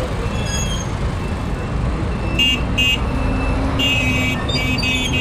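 Steady traffic rumble with short vehicle horn toots: two quick beeps about halfway through, then a longer toot and a few more near the end.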